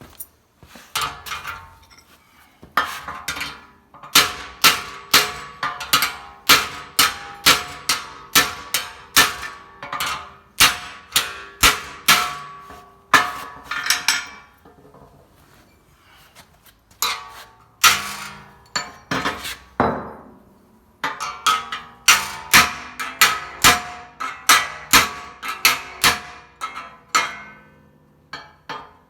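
Hammer blows on a steel patch panel being shaped, each strike ringing with a metallic note. The blows come at about two a second in runs, with a short pause about halfway through and another a little later.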